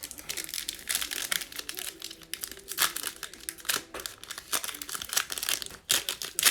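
Crinkling and tearing of a trading-card pack's foil wrapper as it is opened and handled, a rapid irregular crackle throughout.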